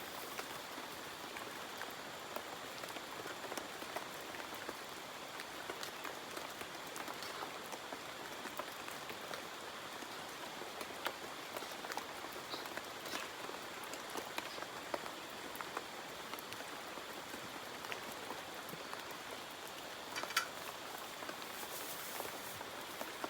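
Steady rain falling, with scattered individual drops tapping close by and one sharper tap near the end.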